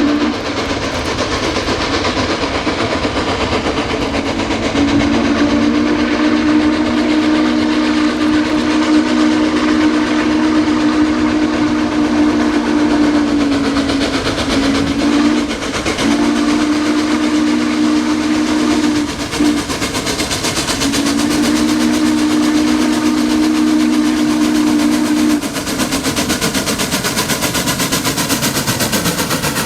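Steam locomotive chime whistle, from Norfolk & Western 4-8-4 No. 611, blowing a series of low blasts: several long ones and one short one. The train runs underneath with steady rumbling noise.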